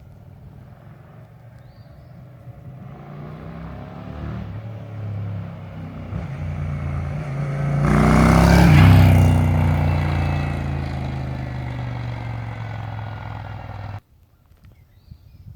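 A V-twin motorcycle engine passing by. It grows louder to a peak about eight to nine seconds in, drops in pitch as it goes past, then fades and cuts off suddenly near the end.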